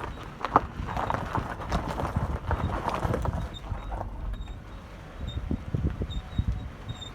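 Chevrolet Cruze 1.6 station wagon driving slowly in first gear, with an unidentified squeak coming in rapid irregular bursts for the first few seconds over a low road rumble, then scattered low knocks. The squeak appears only in first gear below 10–15 km/h; suspension, wheels and brakes have been checked and found in order.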